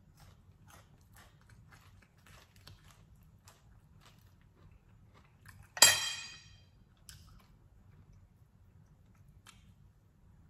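Quiet close-up chewing and mouth clicks of someone eating crispy fried fish, with one loud, sharp, ringing clink a little under six seconds in.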